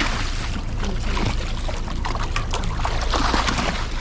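Steady low hum of a boat engine running, under water splashing and sloshing against the hull, loudest about three seconds in.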